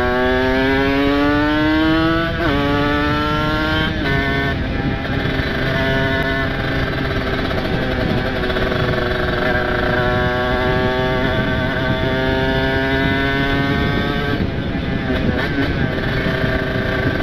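Ported two-stroke Kawasaki Ninja RR 150 engine accelerating. Its pitch rises, then drops sharply at an upshift about two and a half seconds in, and again about a second and a half later; after that it runs at a steady speed.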